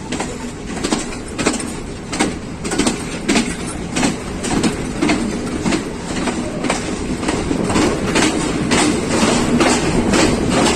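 Passenger train running on jointed track: steady rumble of the carriages with the clickety-clack of wheels crossing rail joints, the clacks coming faster and a little louder toward the end as it gathers speed.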